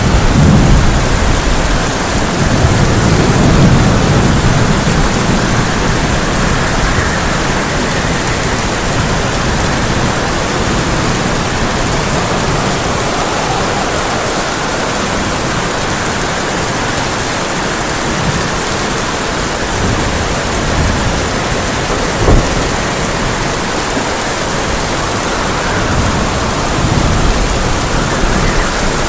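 Heavy rain drumming steadily on a tin roof, with thunder rolling low for the first several seconds and again near the end, and one short sharp crack about 22 seconds in.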